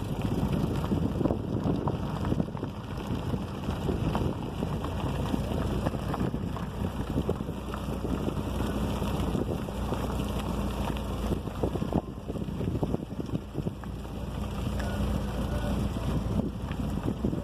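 Wind buffeting the microphone: a gusting low rumble with crackles, rising and falling in loudness. A faint steady hum sits underneath through the middle.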